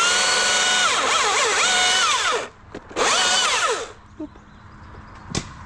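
Chainsaw run at full throttle while cutting, its pitch dipping and recovering under load, in two bursts that stop about four seconds in. A single sharp knock follows near the end.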